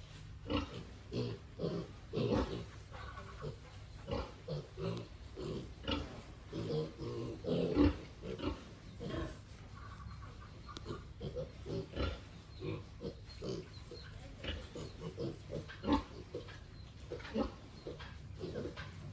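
Pigs grunting: many short, irregular grunts follow one another, over a steady low hum.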